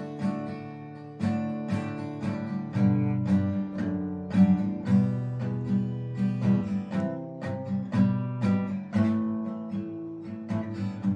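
Background music played on acoustic guitar: plucked and strummed chords.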